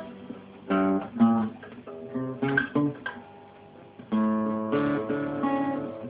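Acoustic guitar plucked and strummed in a few separate chords, each ringing briefly before the next, recorded on a mobile phone so that it sounds muffled and distorted.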